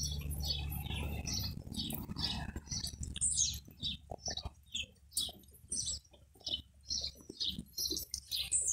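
Small birds chirping, short high notes repeated about twice a second, with light ticking among them.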